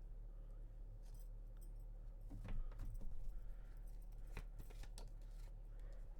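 Tarot cards being handled and drawn from the deck: a few faint clicks and slides of the cards, over a steady low hum.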